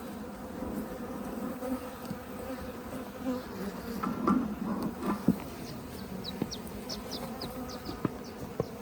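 Honeybees buzzing around the hives: a steady drone, with a few sharp clicks around the middle and some short high ticks in the second half.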